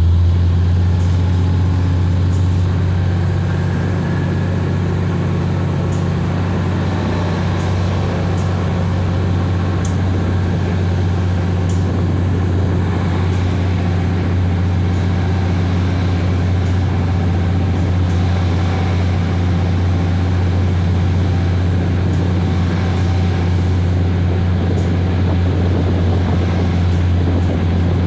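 Diesel train running, a loud, steady low hum with faint ticks every second or two.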